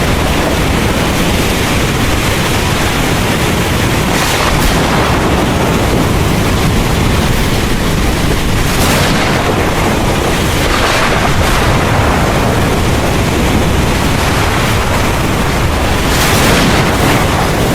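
Heavy rain pouring steadily over a low, continuous rumble of thunder, with a few brief surges of louder hiss as gusts or downpours swell.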